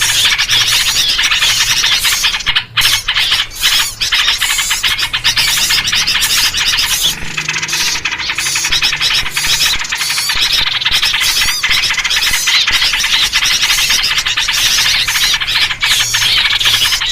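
Dense, nonstop chatter of many agitated small birds' scolding calls, with yellow-vented bulbul (trucuk) calls among them, briefly thinning a few times between about 2 and 4 seconds in. It is a 'noisy' bird-lure recording of the kind played to draw small birds in.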